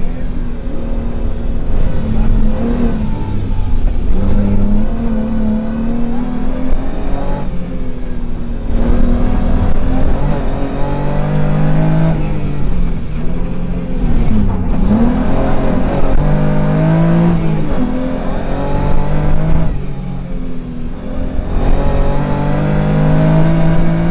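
Rally car engine heard from inside the cabin, revving hard with its pitch repeatedly rising and dropping as it is driven flat out through gears and corners. Twice the throttle is briefly lifted for about a second before the engine pulls hard again.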